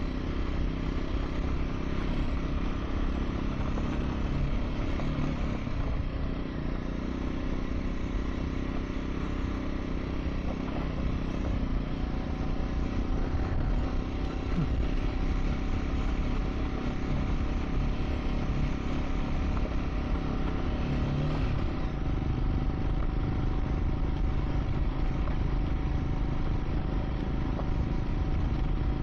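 Triumph Scrambler 400 X's single-cylinder engine running steadily as the motorcycle is ridden along a dirt track, with some clatter over the rough surface.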